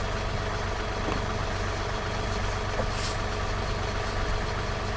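An engine idling steadily, with a short faint hiss about three seconds in.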